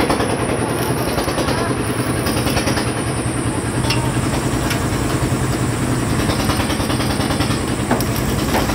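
A vehicle engine running steadily, with a few faint clicks about halfway through and near the end.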